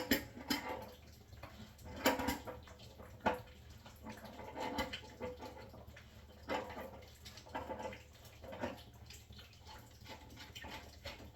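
Irregular clanks, clicks and scrapes of metal handling as the pressure relief discharge pipe is worked loose and unscrewed from an old electric water heater, with a steady low hum underneath.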